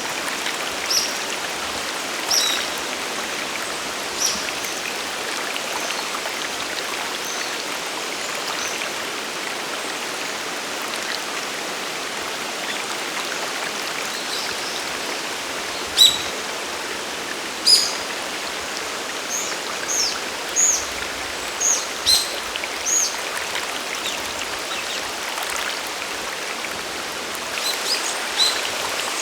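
Steady rush of a waterfall and mountain stream, with short high chirps from small birds: a few early, a run of them in the second half and a couple more near the end.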